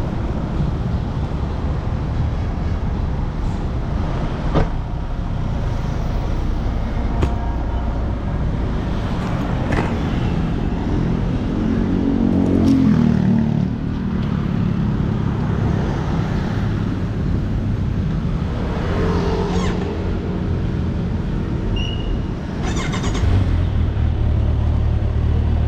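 Motor vehicle engines and road traffic running steadily; about twelve seconds in an engine rises and falls in pitch as it revs or passes, and from about twenty-three seconds a louder low engine hum sets in.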